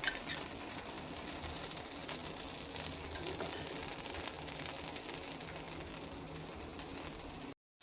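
Dosa frying on a hot griddle in sesame oil: a steady, fine crackling sizzle, with a couple of sharper clicks at the start. It cuts off abruptly just before the end.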